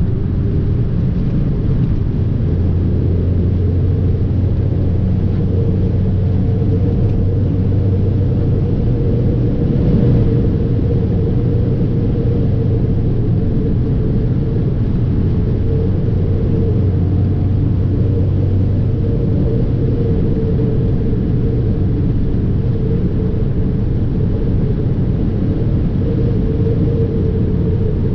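Fiat 500 Abarth's turbocharged 1.4-litre four-cylinder engine running steadily at a near-constant pitch while driving, with road rumble underneath and a brief swell about ten seconds in.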